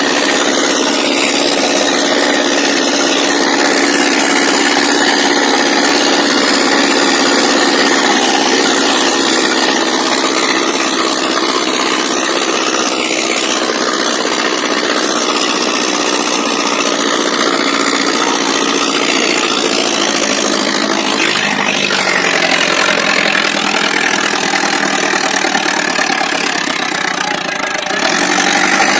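Ace 6565 tractor's diesel engine running steadily, with a change in its sound about three-quarters of the way through and again near the end.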